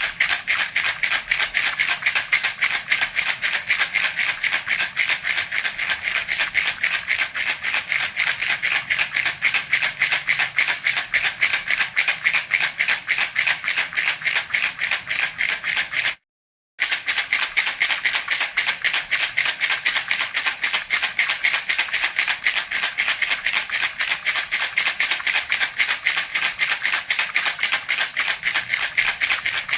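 Baby rattle toy (jhunjhuna) shaken fast and evenly in a steady, continuous rhythm, with a brief break of silence about halfway through.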